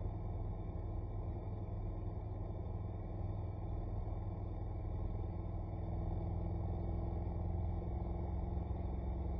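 Honda NC750X's parallel-twin engine running steadily under way, with a low road and wind rumble; it grows a little louder about six seconds in.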